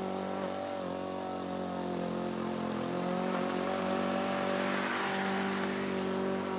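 Lawn mower engine running steadily as it cuts wet, overgrown grass.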